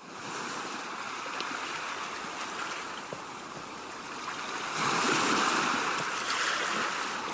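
A steady rushing noise like surf or static, with no tune in it, swelling louder about five seconds in.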